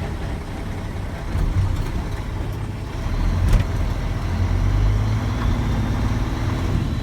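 Tractor-trailer's diesel engine running in first gear at walking pace, its low rumble growing louder about halfway through, with a single sharp click a moment later.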